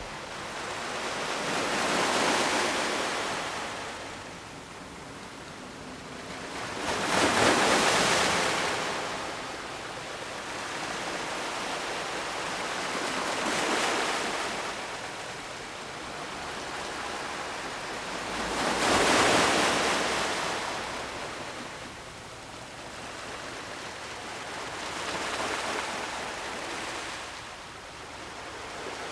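Ocean waves breaking on the shore, each one swelling in a hiss of surf and then drawing back, about every five to six seconds, with two larger breakers standing out.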